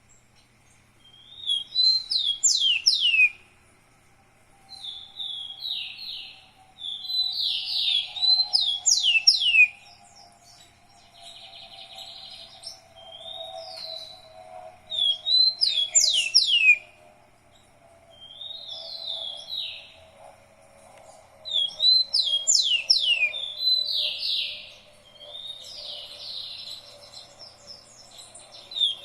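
A songbird singing in repeated bursts of a few seconds each, made of quick chirps and fast downward-sweeping whistled notes, with short pauses between phrases.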